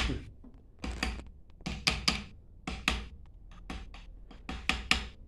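Sharp metallic taps and knocks from parts of a water-booster pump being fitted back together, in clusters of two or three about once a second.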